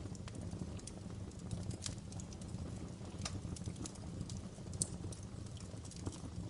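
Wood fire burning in a fireplace, crackling with irregular sharp pops over a steady low rumble of the flames; one louder pop near the end.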